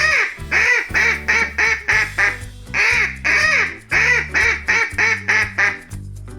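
Duck quacking: two runs of rapid, short quacks over steady background music, stopping shortly before the end.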